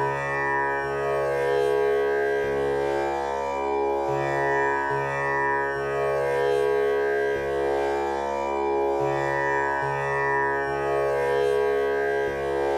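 Tanpura drone tuned to C# for a male voice: its strings are plucked one after another in an unbroken repeating cycle, each note ringing on with a rich buzzing overtone shimmer.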